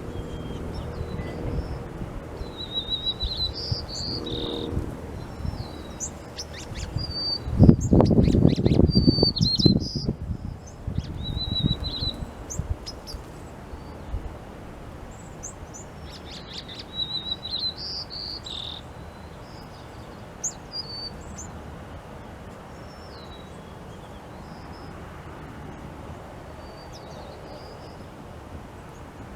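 Small birds chirping and singing in short trilled phrases, busy for most of the first twenty seconds and sparse near the end. About eight seconds in, a loud low rumble with a few sharp knocks lasts around two seconds.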